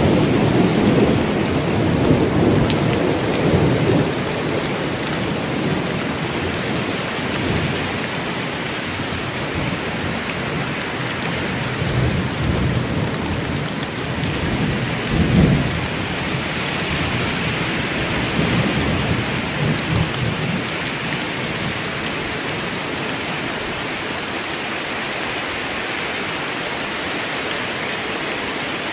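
Steady rain pouring in a thunderstorm, with low thunder rumbling through the first few seconds, a stronger roll about halfway through and softer ones shortly after.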